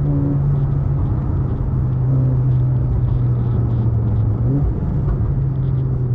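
Car engine droning steadily under way, heard from inside the cabin, its pitch dipping slightly and then briefly rising about four and a half seconds in.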